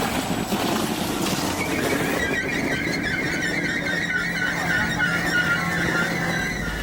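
SL X60B electric commuter train running with steady rolling noise; about two seconds in, a high, wavering metallic squeal sets in and carries on until near the end.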